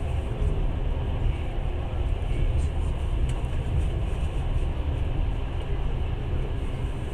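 Passenger train running, a steady low rumble of wheels on rails heard from inside the carriage.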